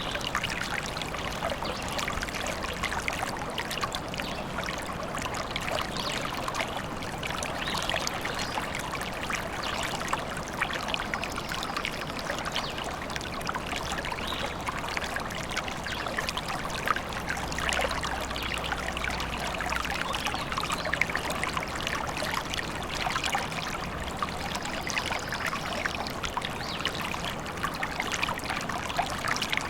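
A small forest stream trickling and babbling steadily over stones.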